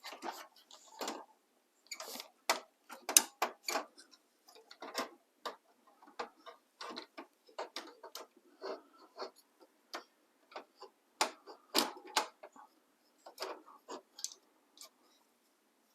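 Irregular plastic clicks and knocks as an HP LaserJet P2055's fuser assembly is worked into place inside the printer, not yet fully seated.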